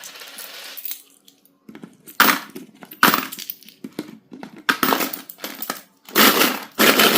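Clay packaging being handled and opened by hand: a string of short noisy bursts, roughly one a second, with brief pauses between them.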